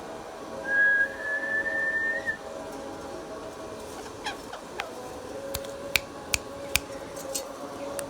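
Indian ringneck parrot whistling: one long, nearly level whistle that rises slightly, starting just under a second in, then two quick falling whistles. Several sharp clicks follow later.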